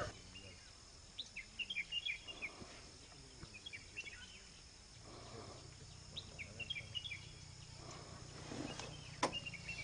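Small birds chirping: two flurries of short, quick high chirps over a faint steady hum, with a single sharp click near the end.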